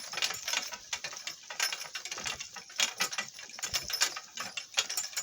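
Donkey-drawn cart rattling and clattering as it rolls over bumpy ground, a dense, irregular run of small knocks and clicks.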